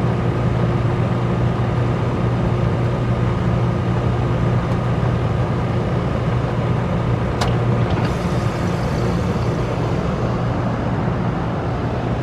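A Ruud Achiever RP14 heat pump running at the end of its defrost cycle, with a steady compressor hum. About seven and a half seconds in there is a sharp click, followed by a rising hiss.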